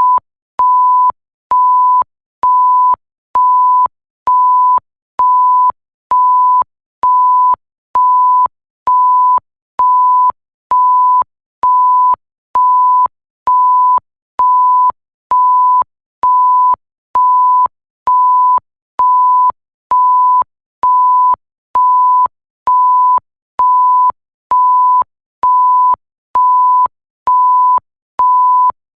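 Censor-style bleep: a single steady pure tone, repeating about once a second, each beep lasting most of the second with a short gap between, and a slight click as each one starts and stops.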